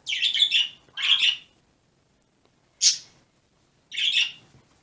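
Pet bird calling: four short high-pitched calls, two close together at the start, then one near the middle and one near the end.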